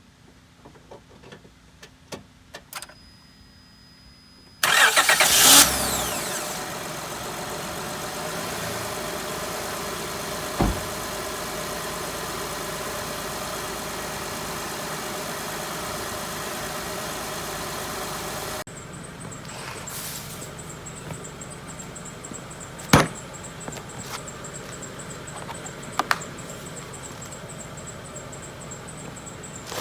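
2006 Honda Odyssey's 3.5-litre V6 started by its newly replaced starter: a short crank that catches at once about five seconds in, then a steady idle. About two-thirds through the sound drops abruptly to a quieter steady hum, with two sharp clicks near the end.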